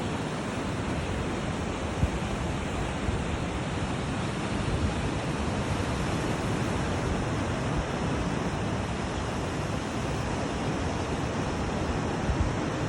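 Steady rush of ocean surf, with wind buffeting the microphone in low rumbles.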